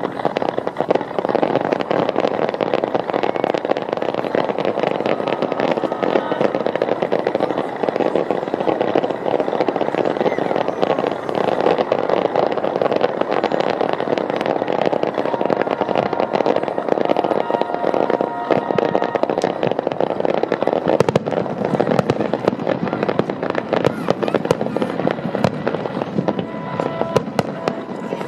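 Fireworks display going off without pause: a dense run of bursts and crackling, with music playing underneath.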